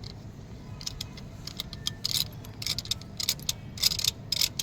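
Metal tools and engine parts clinking and rattling in quick irregular clicks, busiest in the second half, over a steady low hum.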